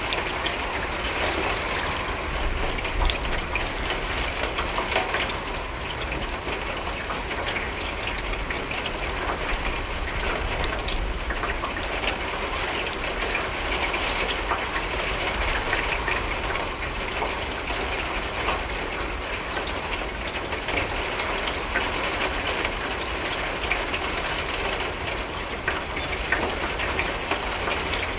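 Steady rain falling against window glass: an even hiss of many drops with faint individual ticks, over a constant low rumble.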